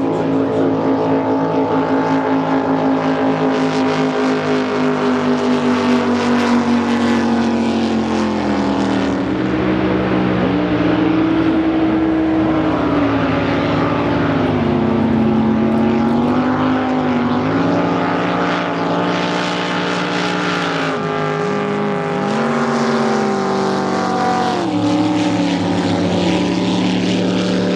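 Drag boat's engine running continuously. Its pitch slides down over the first eight seconds or so, then rises and falls again and again as the throttle is worked.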